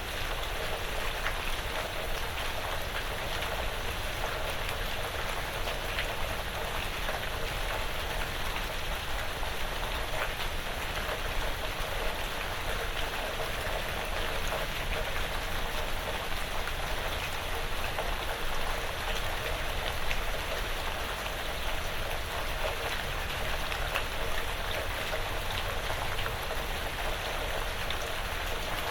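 Steady light rain pattering on a porch roof and on the surrounding woods, a dense even hiss with many individual drop ticks.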